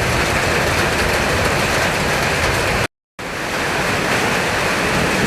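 Summer storm: strong wind and heavy rain making a loud, steady rush of noise. The sound cuts out to silence for a moment about three seconds in.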